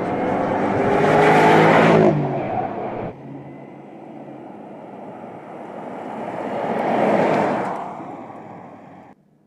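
BMW X6 driving past twice. On the first pass its engine note is loudest about two seconds in, then drops in pitch as it goes by. The sound cuts off abruptly about three seconds in, swells again to a second pass near seven seconds, and cuts off again near the end.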